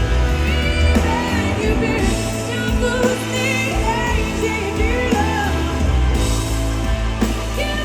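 Live blues-rock band playing an instrumental passage, a lead line of bending, wavering notes over bass and drums.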